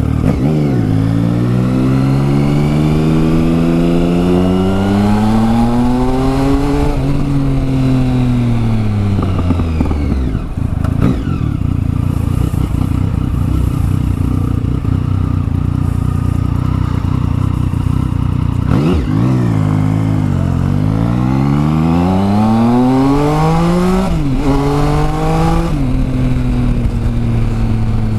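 Triumph Tiger 1050's three-cylinder engine, fitted with a new exhaust, pulling up through the revs and then easing off, twice. Between the two pulls it runs steadily at low revs, and there is a gear change partway through the second pull. Heard through a helmet-mounted microphone.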